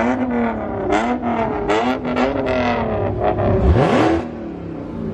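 Car engine revving repeatedly, its pitch climbing and dropping in several quick blips, with one longer rev rising near the end.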